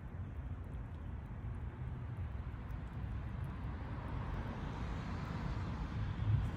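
Road traffic: a steady low rumble with a hiss of tyres that grows gradually louder over the last few seconds, as a car passes.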